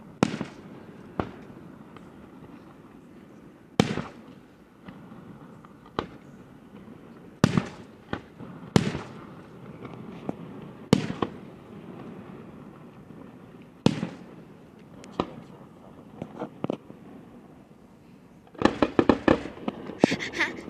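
Aerial fireworks exploding: single sharp bangs every second or few, then a quick run of crackling pops near the end.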